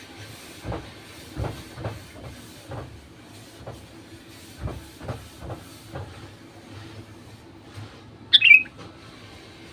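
Sooty-headed bulbul giving one short, loud call about eight seconds in, falling in pitch. Before it, a series of soft irregular low knocks over a steady hum and hiss.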